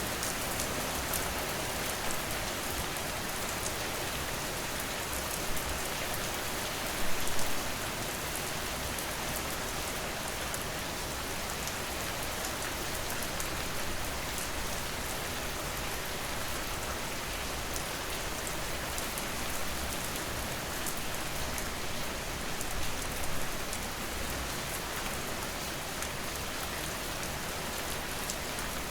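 Steady rain falling, a dense even hiss with individual drops ticking through it. There are brief louder spatters about seven seconds in and again around twenty-three seconds.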